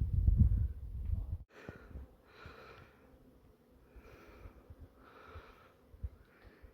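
A low rumble on the microphone for the first second and a half, then, after a cut, a person breathing hard in about five soft puffs roughly a second apart, out of breath from a steep rock scramble.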